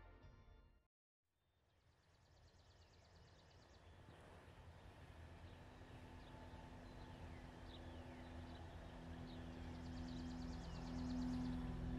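Background music fades out, and after a moment of silence a quiet outdoor ambience fades in. Wild songbirds call in it: a couple of rapid trills and a series of short, falling chirped notes. A low, steady hum-like tone comes in and swells near the end.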